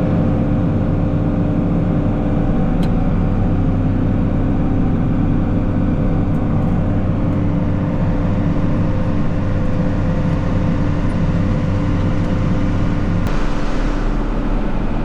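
John Deere 4955 tractor's diesel engine running steadily under load while pulling a planter, a constant even drone. About 13 seconds in, the deepest rumble eases and a higher hiss comes up.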